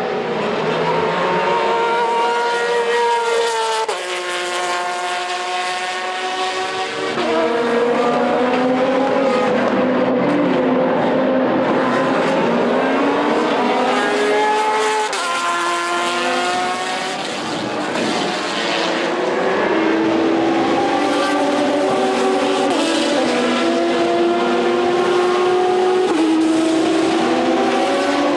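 Several race car engines running on a circuit at once, their pitches rising and falling through gear changes, with stepped drops in pitch a few times. Among them is the Porsche 911 RSR GTE's 4.0-litre flat-six on an open, centre-mounted exhaust.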